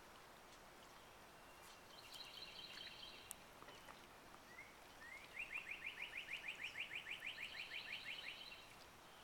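Faint birdsong: a short buzzy call, then a fast even series of about sixteen short rising notes, about five a second, lasting roughly three seconds.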